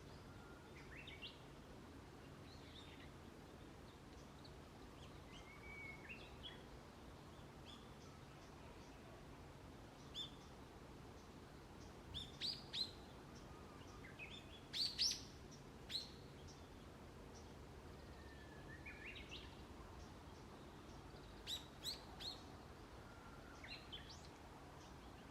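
Wild birds calling in a forest: scattered short, sharp chirps and brief rising notes, several in quick clusters around the middle and again near the end, over a faint steady background.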